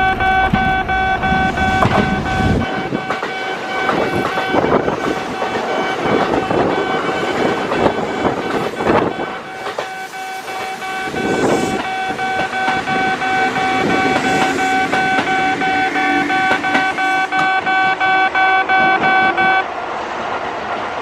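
Kintetsu train running through the station, wheels clattering over the rails under a steady high-pitched tone that stops shortly before the end.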